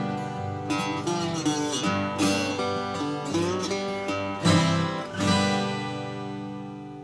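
Acoustic guitar music: strummed chords and plucked notes, ending on a last chord about five seconds in that rings out and slowly fades.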